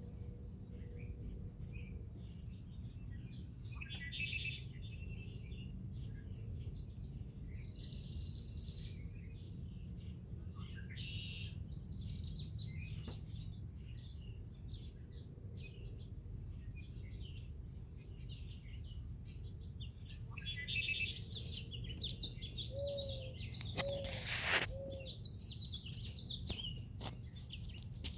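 Red-winged blackbirds singing, repeating buzzy trilled songs every few seconds over a steady low background rumble. About 23 seconds in come three short low notes, then a loud, brief harsh sound.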